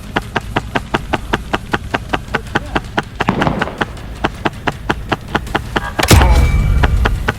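A fast, even thumping of about six knocks a second over a low hum. About six seconds in, a loud slam with a ringing tail and a low rumble cuts across it.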